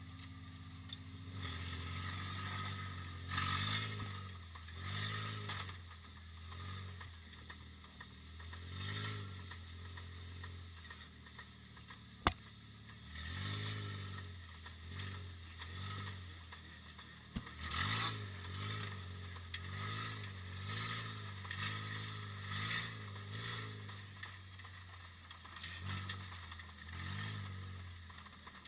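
Demolition derby car engine idling, revved again and again with short throttle blips, the pitch rising and falling each time, about one every one to two seconds. Two sharp clicks, one a little after the middle and one later.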